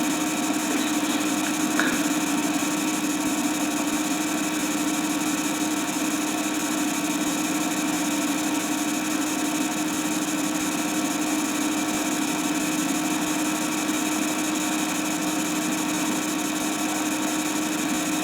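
Steady machine-like hum with hiss, even and unchanging, with no distinct events.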